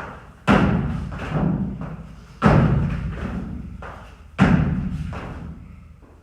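Heavy thumps of workout equipment and landings, one about every two seconds, each followed by a lighter knock and echoing away.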